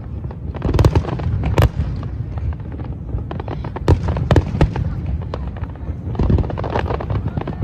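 Aerial fireworks bursting in a rapid, irregular barrage of sharp bangs and crackles over a continuous low rumble of explosions.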